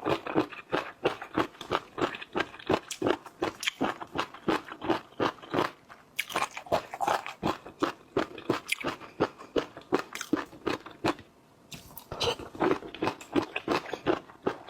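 A person chewing and crunching seafood, a steady run of crunches and chews several a second, with a short break about eleven seconds in.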